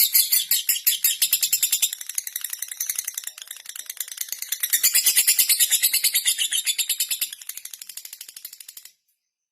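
Lovebird singing a fast, high-pitched run of rapid ticking notes ('ngetik'). It softens in the middle, swells loud again, then cuts off suddenly near the end.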